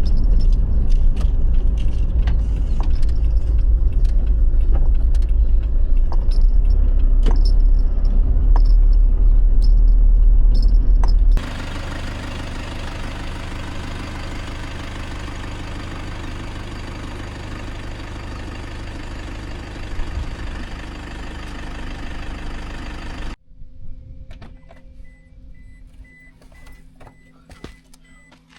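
A deep steady rumble with scattered small clicks, cutting abruptly to the bright, even hiss of heavy rain, then cutting again to a much quieter stretch with small clicks and a faint steady hum.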